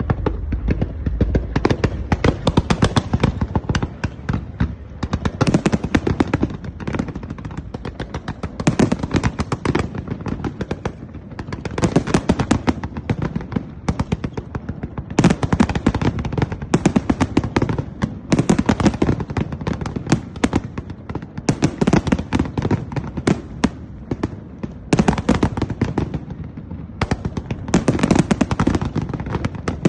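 Fireworks display: dense volleys of rapid cracks and bangs, coming in surges with brief lulls between them.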